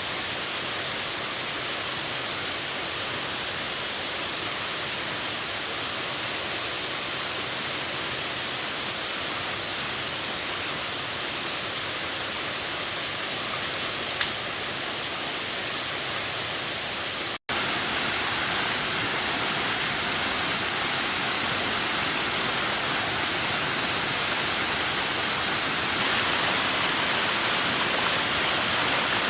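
Steady rushing of water outdoors, an even hiss with no rhythm. It drops out for an instant about 17 seconds in and comes back slightly louder.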